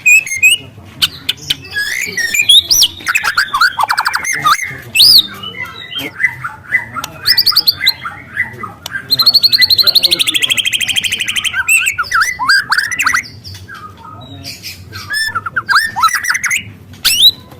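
Young white-rumped shama (murai batu) singing a loud, varied song of whistles, sharp clicks and chatter, with a long rapid canary-like trill about halfway through that slowly falls in pitch.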